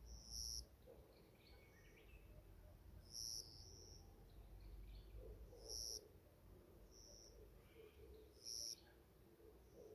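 Forest birdsong: one bird repeats a short, high call about every three seconds, four times, while other birds twitter faintly between the calls.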